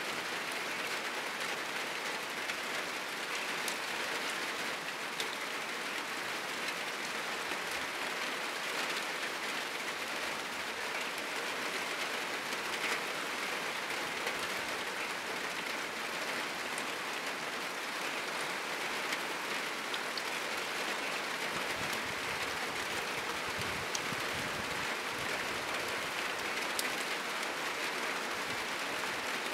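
Heavy rain falling steadily on a roof, a dense even hiss with fine patter of individual drops throughout.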